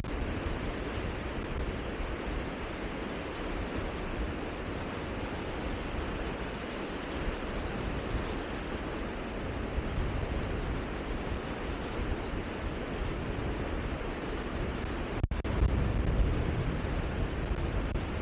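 Steady rushing wind, with gusts buffeting the microphone. A brief break comes about fifteen seconds in, after which the low buffeting is stronger.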